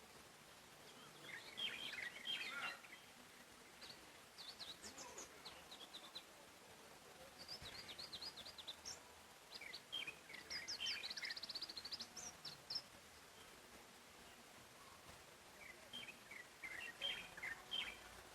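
Songbirds singing in bouts of quick high chirping notes over a faint steady hiss, with a rapid trill about two-thirds of the way through.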